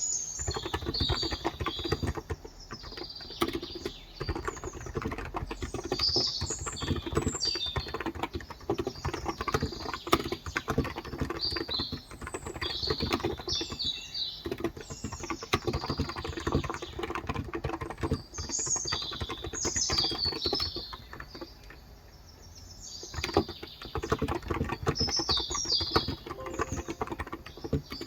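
Continuous typing on a Cox Endeavor electrocapacitive (Topre-style) 35 g tenkeyless keyboard: a dense run of soft keystrokes that pauses briefly about three quarters of the way through. Birds chirp in short high bursts in the background.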